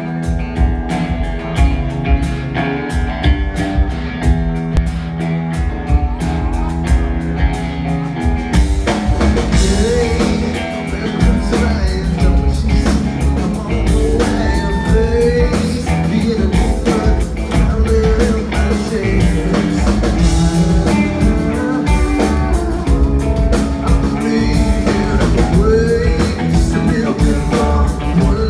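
Live rock band playing: drums and guitar with a steady beat, the sound filling out about eight seconds in as a voice starts singing over it.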